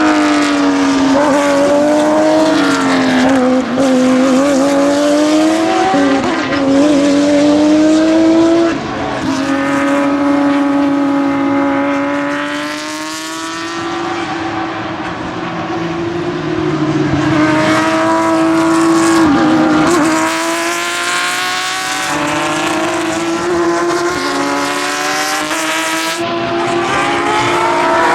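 Porsche 911 GT3-R (997) race car's flat-six engine at full song through an open exhaust, its pitch climbing and dropping with gear changes as it laps the circuit. It is loud throughout and fades a little twice, about a third and a half of the way in, as the car draws away.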